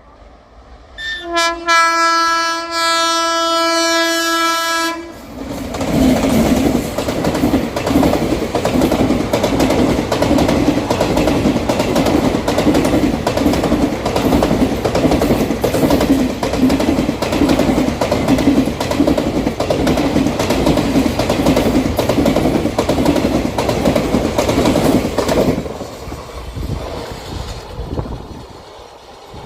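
An express train's horn sounds one long steady blast of about four seconds. The train then passes at speed for about twenty seconds, its wheels clattering over the rail joints in a quick, even rhythm, and the sound dies away near the end.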